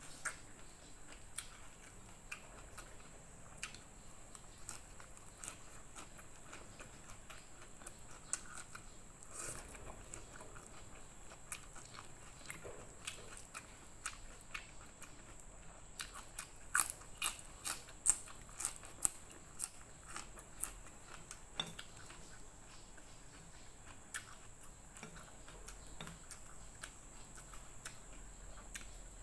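A person chewing and crunching raw water spinach leaves and stems with bean-sprout noodles, close to the microphone: scattered sharp crunches and wet mouth clicks, with a run of louder crunches a little past halfway.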